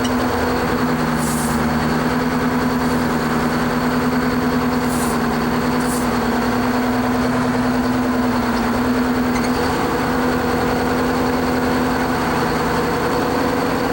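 Heavy truck diesel engine idling steadily, with three short hisses of air, the first about a second in and two close together about five seconds in.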